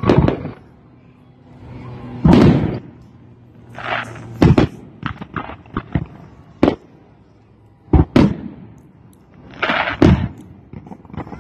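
Fireworks display: aerial shells bursting with sharp bangs every second or two, each dying away, with crackling between the bursts.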